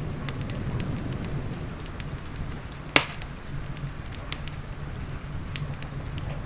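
Fireplace crackling: scattered sharp snaps and pops, with one loud pop about three seconds in, over a steady low rumble.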